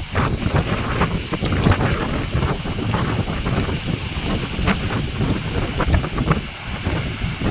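Wind buffeting the microphone over the irregular splashing and wash of sea waves.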